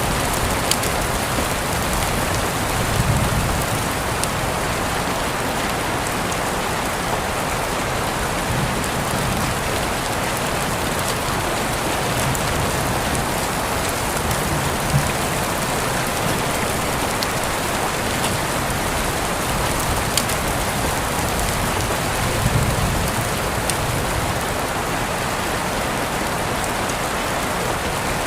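Steady rain falling on a surface, with scattered sharp drips and a few soft low thuds about three seconds in, midway, and near the end.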